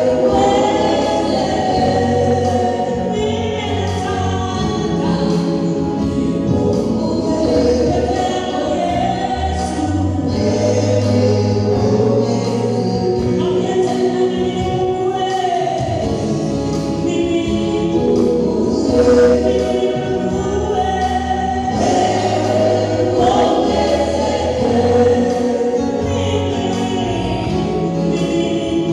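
A choir singing a gospel song over sustained low bass notes.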